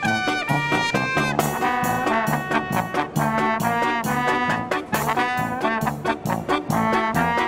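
Marching brass band playing, with trumpets and trombones over a bouncing bass line of short, regular notes.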